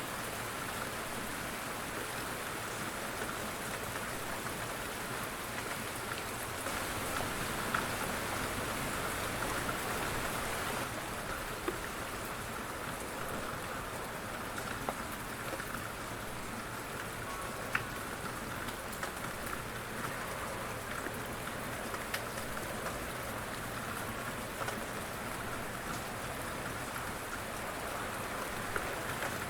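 Steady light rain falling, with scattered individual drops ticking on a surface.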